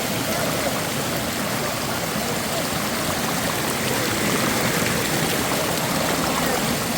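Creek water rushing and splashing steadily, an even hiss with no breaks.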